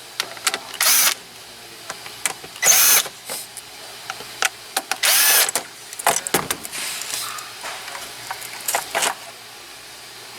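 Cordless power tool run in short bursts of about half a second, three main ones, each whirring up and down in pitch as it backs out fasteners to remove the console shifter assembly. Short clicks and rattles of parts fall between the bursts.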